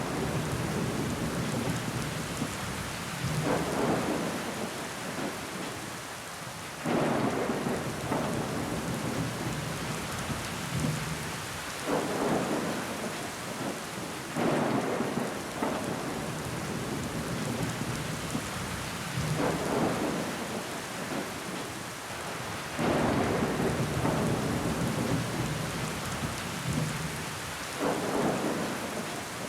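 Rain falling steadily against a window pane, with water trickling down the glass. The rain swells in loudness every few seconds.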